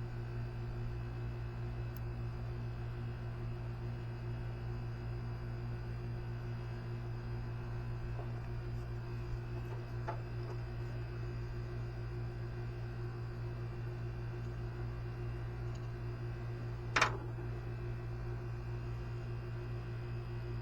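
A steady low hum with faint steady tones above it, broken about 17 seconds in by one sharp clink, with a couple of fainter clicks earlier.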